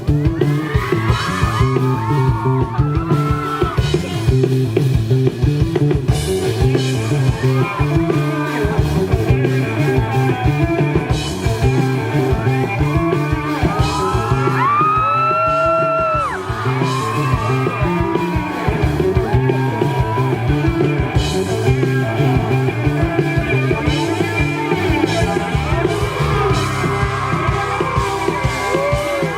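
Live rock band playing a psychedelic-tinged song: electric guitar and bass over drums, with high gliding lead notes bending up and down in the middle.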